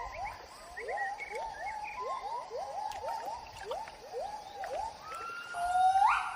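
Gibbon song: a quick series of swooping hoots, about three a second, then a louder, longer rising whoop near the end.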